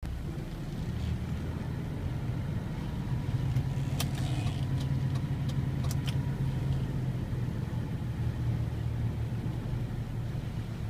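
Steady low rumble of a car on the road, with a few sharp clicks about four to six seconds in.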